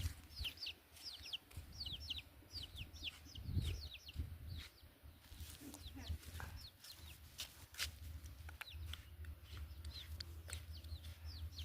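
Chicks peeping over and over in short, high, falling chirps, with a few sharp clicks or knocks now and then.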